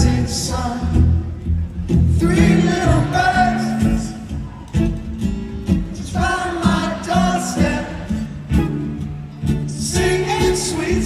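Band music with a singing voice carrying the melody over a steady bass line.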